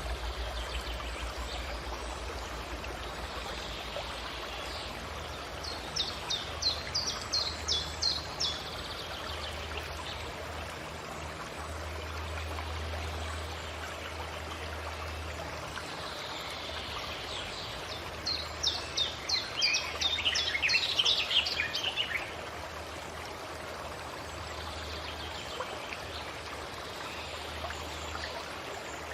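Forest ambience: a steady hiss of running water with a songbird singing two quick phrases of rapid repeated high notes, about six seconds in and again around eighteen seconds in, the second phrase longer and dropping lower in pitch.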